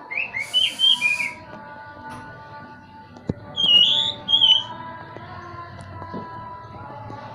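Oriental magpie-robin (kacer) singing: two short bursts of loud, sweet whistled phrases with quick up-and-down slurs, the first right at the start and the second about three and a half seconds in, over a steady layer of held tones.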